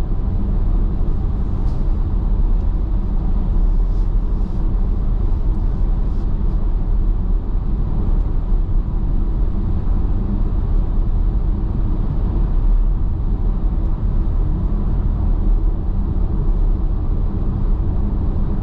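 Steady road and tyre rumble inside a car's cabin at highway speed, with a few faint clicks in the first several seconds.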